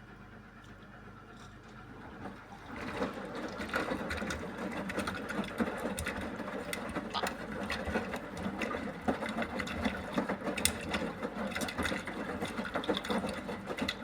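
Beko WMY81283LMB2 front-loading washing machine rinsing: the drum turns with water sloshing and a run of light clinks and rattles that sound like glass. A faint hum gives way to this busier sound about two and a half seconds in, and it eases off near the end.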